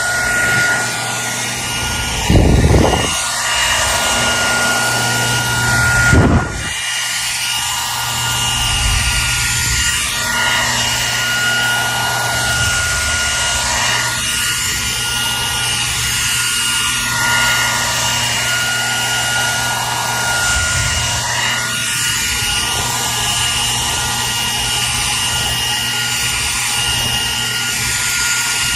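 Hair dryer running continuously: a steady rush of air over a constant motor whine and hum. Two brief low bumps come about two and a half and six seconds in, the second followed by a momentary dip in the sound.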